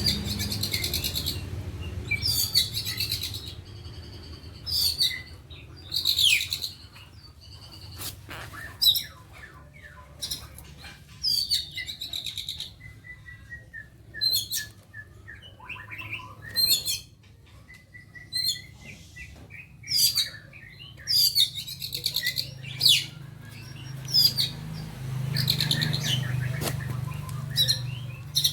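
Songbirds chirping and singing in short, loud bursts of high, rapid notes every second or two, some phrases sweeping downward in pitch.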